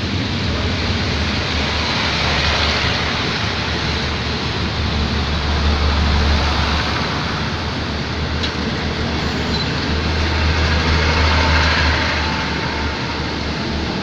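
Stainless-steel passenger coaches of an express train rolling past as the train pulls out of the station: a steady rush of wheels on rails with a low rumble that swells twice.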